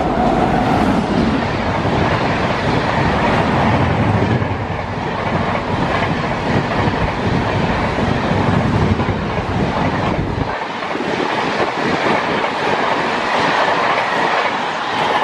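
Express passenger train hauled by a WAP7 electric locomotive running through at speed, its coaches rushing past close by with a steady loud roar of wheels on rail and rushing air. The deepest rumble drops away about ten and a half seconds in.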